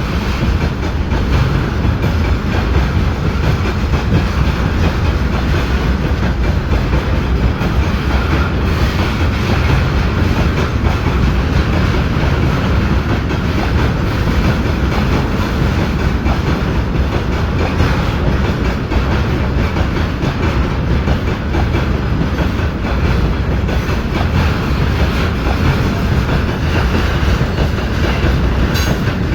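Freight train wagons rolling past, a steady loud rumble with wheels clattering on the rails.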